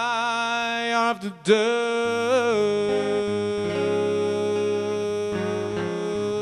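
Live rock band with electric guitar and bass: a long held note with heavy vibrato breaks off about a second in, a second brief wavering note follows, then guitar and bass notes ring on steadily.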